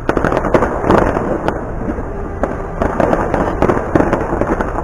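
Firework display going off: a rapid, continuous string of bangs and crackles that starts suddenly, with the loudest reports about a second in and again near four seconds.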